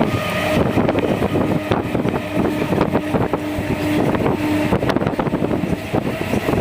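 Electric suburban local train (EMU) running along the track, heard from inside the coach: a continuous rumble and rattle of wheels and coach body, with a steady hum that comes and goes.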